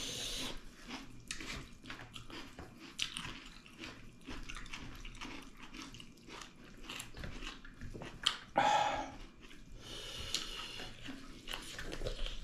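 Close-up mouth sounds of people chewing pork leg with dal and rice: wet smacking and many small clicks, with a louder sucking sound about eight and a half seconds in.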